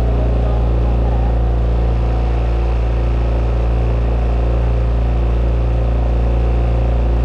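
Motorboat's engine running steadily at constant speed, heard from on board: an even, deep drone with a hum of steady tones above it.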